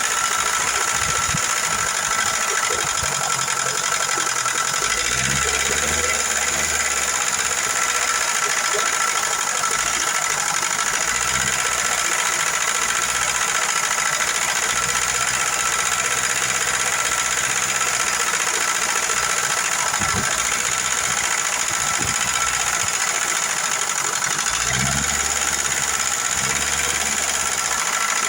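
Car engine idling steadily with the ticking of noisy hydraulic valve lifters.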